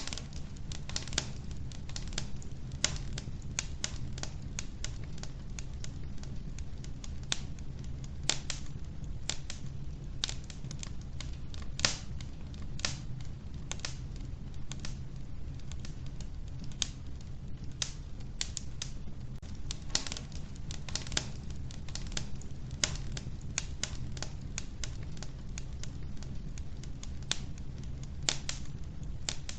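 Wood fire burning in a wood-burning stove: irregular sharp crackles and pops from the burning logs, a few every second, over a steady low rumble of the flames.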